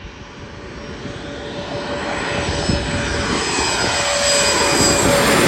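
Jet airliner's engines growing steadily louder as the aircraft approaches and passes close by, a whine over a rushing roar. Right at the end the engine tones start to drop in pitch as it goes past.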